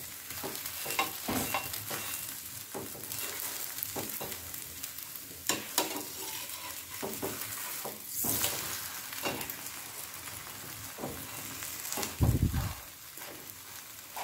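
Garlic paratha sizzling in ghee on a nonstick tawa while a spatula presses and scrapes at it, with a louder clatter about eight seconds in as it is flipped over. A dull thump sounds about twelve seconds in.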